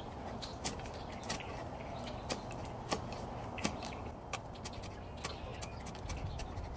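Mora Companion Heavy Duty knife whittling a stout piece of wood: irregular short, sharp snicks of the blade cutting into the wood, about one or two a second, over a steady low background noise.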